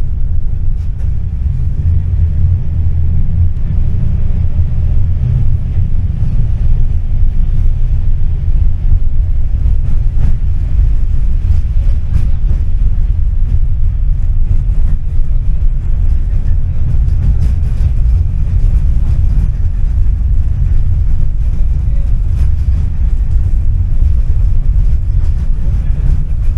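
Tram running, a steady low rumble with faint rattles.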